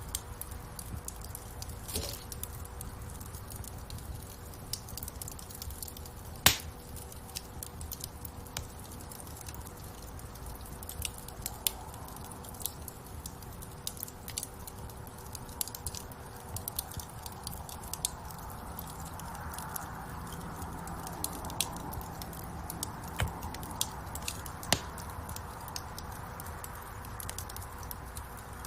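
Wood fire burning in a fireplace: irregular crackles and pops over a steady low rush of flame, with one louder pop about six seconds in.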